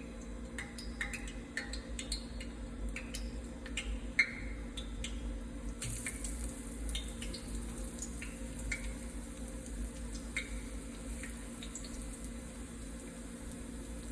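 Hot frying oil crackling as battered corn dogs fry: a steady sizzle broken by many irregular sharp pops of spitting grease, the loudest about four seconds in.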